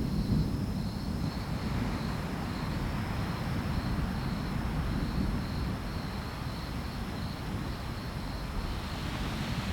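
Steady rain hiss under a low rumble, with insects chirping faintly in an even pulse.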